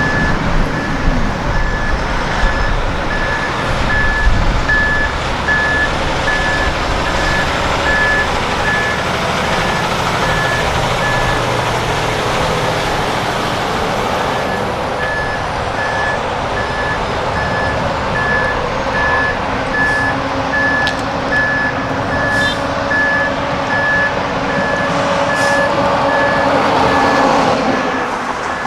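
Vehicle backup alarm beeping in a steady repeating pattern, stopping for a few seconds near the middle and then resuming, over the running of truck engines.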